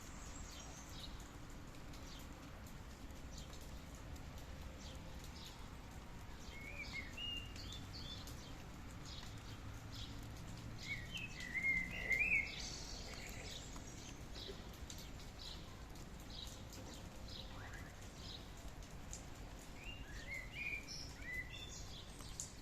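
A bird chirping in short quick phrases, about a third of the way in, loudest around the middle, and again near the end, over steady rain with drops pattering.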